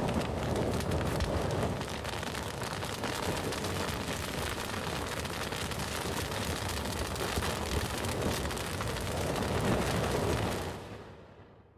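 Campfire burning, a steady rush of flames with dense crackling and popping of wood, which fades out over the last second or so.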